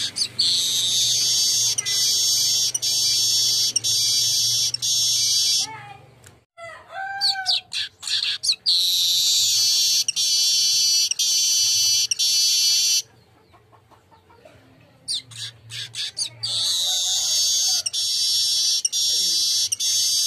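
Golden-headed weaver (manyar) singing: three long, high, buzzy song bouts of several seconds each, with short pauses between them that hold a few lower chirps.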